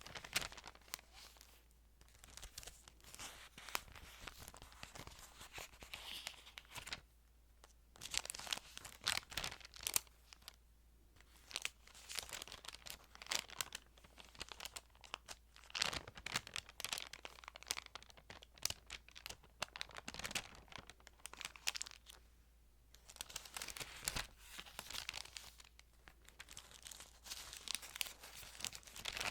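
Thin Bible pages being handled and turned, crisp paper rustling and crinkling in bursts with short pauses between.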